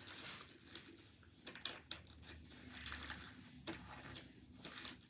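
Faint rustling and creasing of a sheet of paper being folded and handled, with a couple of sharp crinkles.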